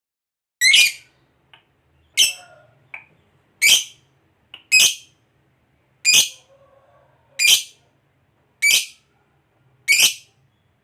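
Lovebird giving a series of eight short, shrill calls, one every second or so, each a brief sharp shriek rather than a long trill.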